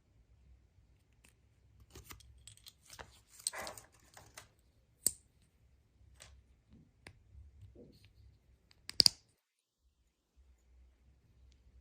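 Hands unwrapping and opening surprise eggs: scattered plastic clicks, with a short stretch of rustling and tearing of wrapping. The loudest sound is a sharp double click about nine seconds in.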